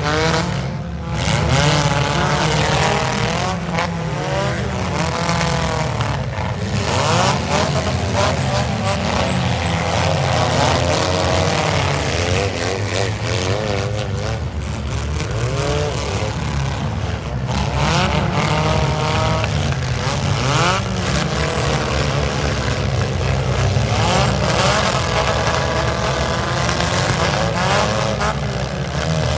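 Several compact demolition derby cars' engines revving hard all at once, their pitch repeatedly rising and falling as the cars push against each other.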